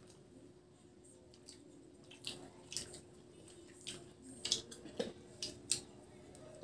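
Wet chewing and lip-smacking of people eating rice and chicken by hand, with a run of sharp smacks starting about two seconds in, over a faint steady hum.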